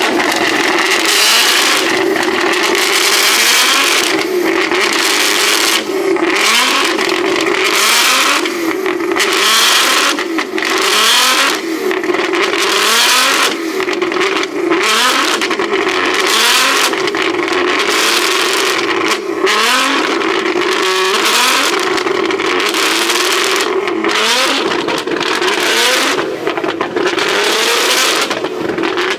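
Car engine revved hard over and over, its pitch climbing roughly once a second, over a steady screech of spinning tyres, as in a burnout or donuts.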